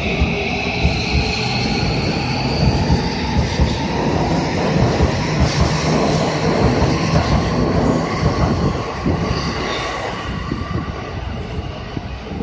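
E235-series electric train running on the rails, its traction motor whine rising in pitch over the first few seconds as it picks up speed, over steady wheel and track noise.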